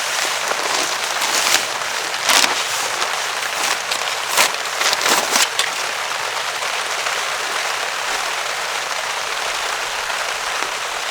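Steady heavy rain falling on a DD tarp, with a few sharp pops or taps in the first half.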